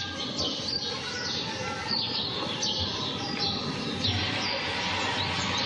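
Small birds chirping, many short high chirps in quick succession over a steady hiss of outdoor ambience.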